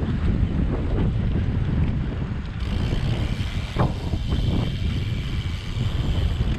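Wind rumbling on the microphone of a camera carried on a moving bicycle. A higher hiss joins about two and a half seconds in.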